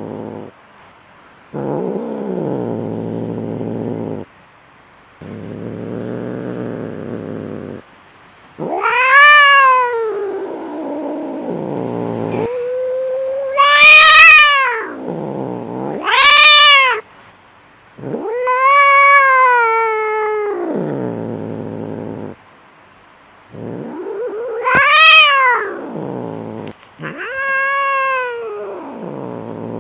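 Cats fighting: long low growls broken by short pauses, alternating with about six loud yowls that rise and then fall in pitch.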